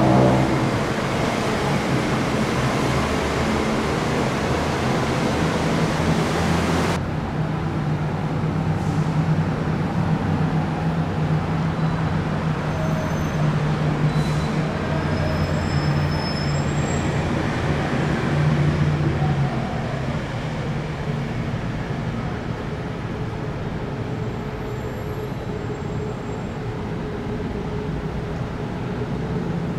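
BTS Skytrain electric train running at the elevated station: a steady rumble of wheels on rail with a low motor hum that eases off about two-thirds of the way through. A loud hiss cuts off suddenly about seven seconds in, and faint high squeals come and go in the middle.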